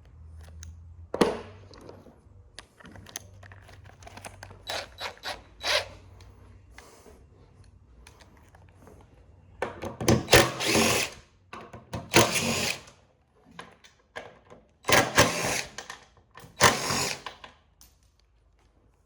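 Cordless drill-driver running in four short bursts of about a second each, backing screws out of the printer's frame. Before the bursts come scattered clicks and knocks from handling the tool and the parts.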